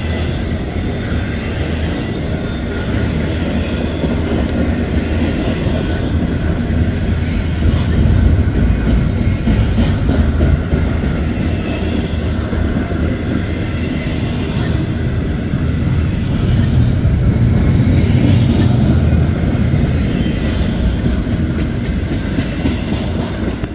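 Double-stack intermodal freight train's well cars rolling past on the rails: a loud, steady rumble that swells slightly twice, about a third and about three quarters of the way through.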